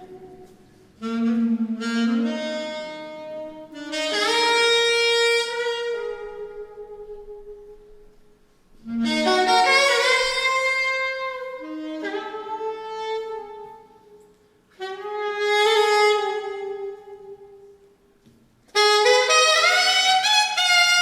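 Alto saxophone playing four separate phrases of held notes, some sliding up in pitch, with short pauses between them.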